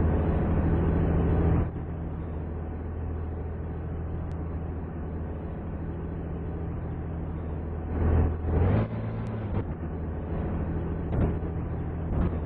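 Fire truck engine running steadily. It drops to a lower, quieter note about two seconds in, and surges louder briefly about eight seconds in.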